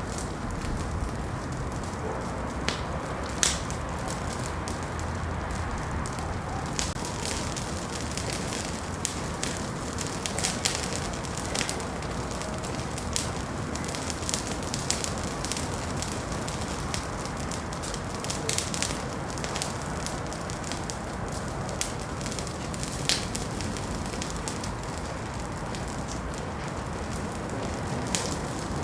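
Wood fire burning in a fireplace: a steady low rush of flame with irregular sharp crackles and pops throughout, thickest in the middle stretch.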